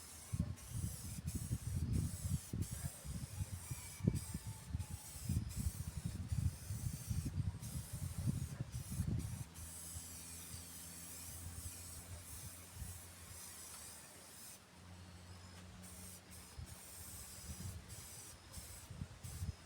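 Aerosol spray-paint can hissing in repeated bursts with short breaks between them, a longer pause about three-quarters through, as a first coat of paint is sprayed on.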